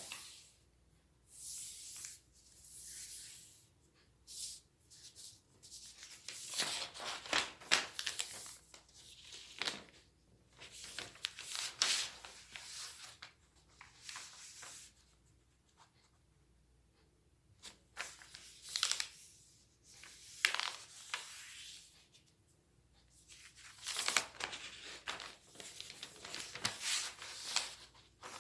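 A sheet of origami paper being handled and folded by hand: irregular rustling and creasing in short bursts, separated by brief quiet pauses.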